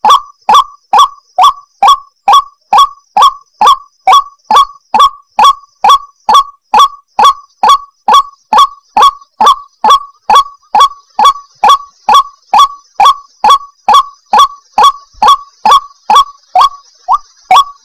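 White-breasted waterhen (ruak-ruak) calling: one short, sharp note repeated steadily, about two and a half times a second, without a break.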